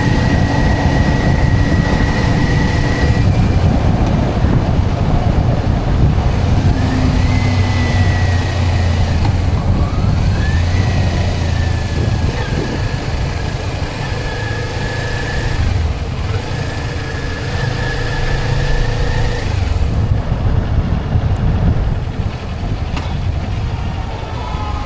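Motorcycle riding along a road: the engine runs under heavy wind and road noise, its pitch shifting up and down a few times.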